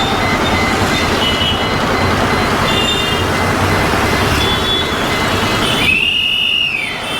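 Truck and surrounding road traffic running, a dense steady rumble, with a high squealing tone that rises and falls over about a second near the end.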